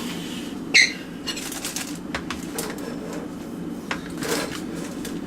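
Scattered small clicks and rustles of food packaging and utensils being handled, with one sharper, louder click about a second in, over a steady low hum.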